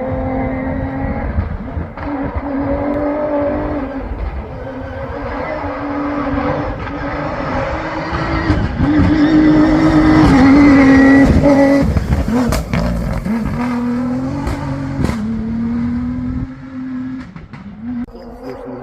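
A rally raid competition vehicle's engine approaching at speed and passing, its pitch stepping up and down through gear changes. It is loudest about ten seconds in, with a couple of sharp cracks just after, then fades away.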